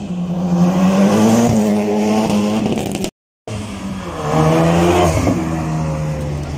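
Car engine revving hard, its pitch climbing and falling back twice, with the sound cutting out for a moment about three seconds in.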